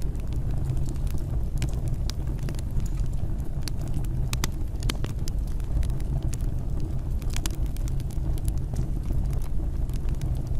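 Wood fire burning in a fireplace: a steady low rumble with sharp crackles and pops scattered irregularly through it.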